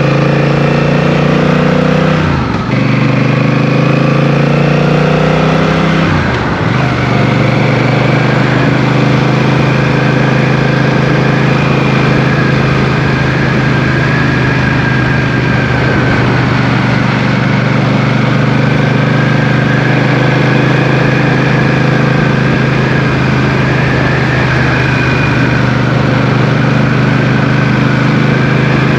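Motorcycle engine running under load as the bike is ridden, its note rising and then dropping sharply twice, about two and six seconds in, as with gear changes, then holding a fairly steady cruise over wind and road rush.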